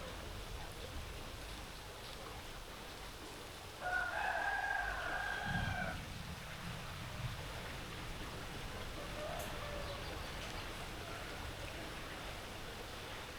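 A rooster crows once, a single call of about two seconds beginning about four seconds in, over the steady hiss of rain.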